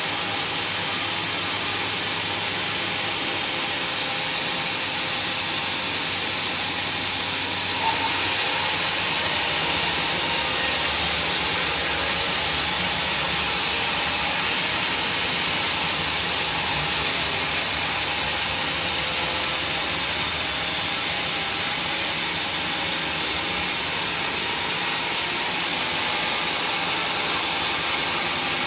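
A machine running steadily with an even hiss, with one brief knock about eight seconds in.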